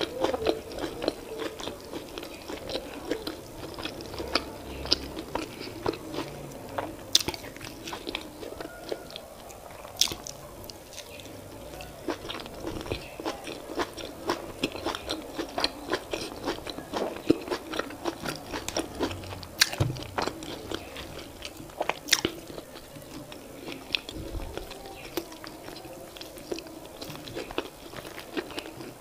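A person chewing boiled yam, sweet potato and vegetable sauce close to the microphone: a dense, continuous run of small sharp mouth clicks, with a few louder ones scattered through.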